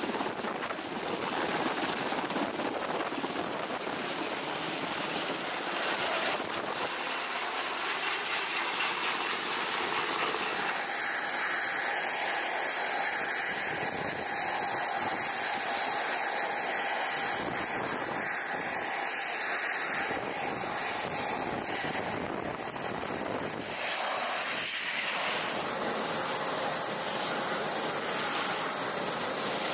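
Jet aircraft engines running on a carrier flight deck: a steady, loud roar. About ten seconds in, several high steady whining tones join it, and the sound changes abruptly again late on.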